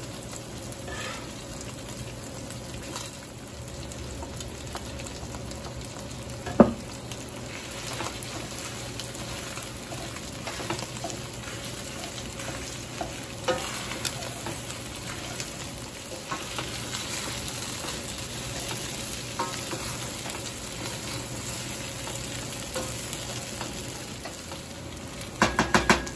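Diced potatoes and chorizo sizzling steadily in a stainless steel pan while a wooden spoon stirs and scrapes them around. There is one sharp knock about six and a half seconds in, and a quick run of knocks near the end.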